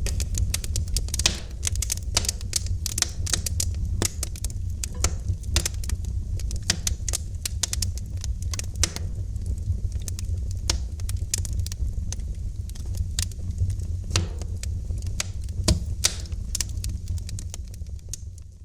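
Wood fire crackling in a fireplace: a dense, irregular stream of sharp pops and snaps over a steady low rumble of the flames.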